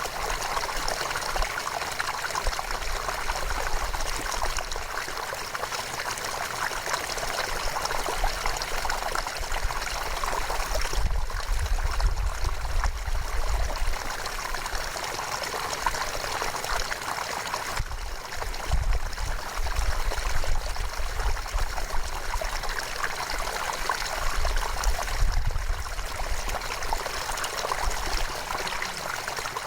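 A river flowing steadily, a continuous rushing, trickling water sound, with a low rumble swelling underneath a few times.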